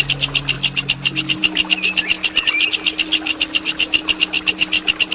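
A songbird's rapid rolling trill: a long unbroken run of sharp, high, rough notes repeated evenly at about ten a second, the harsh 'nembak' rolling phrase used as training song for competition birds.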